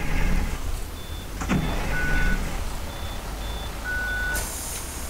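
A Blue Bird Vision school bus idling with a low engine rumble, a thump about a second and a half in and a run of short electronic beeps. Near the end a loud hiss of air starts, typical of the bus's air brakes being released before pulling away.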